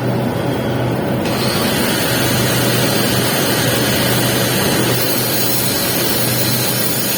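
Electric welding arc on pipe, a steady crackling sizzle over a low electrical hum, while laying a capping pass. The sizzle grows louder and brighter about a second in.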